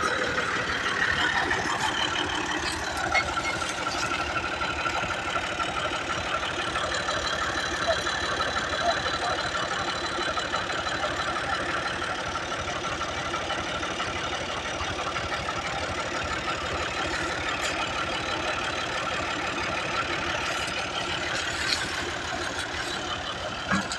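Tractor diesel engine running steadily, with a fast even firing rhythm.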